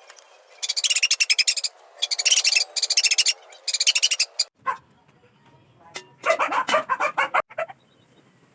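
Animal calls: rapid chattering in four short high-pitched bursts, then a lower-pitched run of quick calls about six seconds in.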